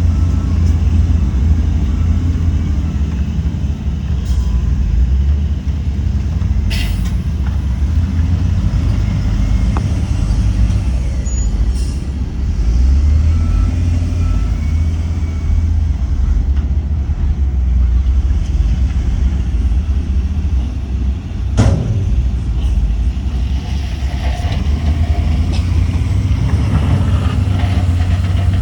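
Heavy diesel earthmoving machinery running: a loud, steady, deep engine drone, with two sharp clanks, one about seven seconds in and one about twenty-one seconds in.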